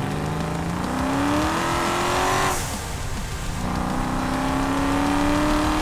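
Procharger-supercharged 408 LSX stroker V8 accelerating hard: the revs climb, break off for an upshift about two and a half seconds in, then climb again in the next gear.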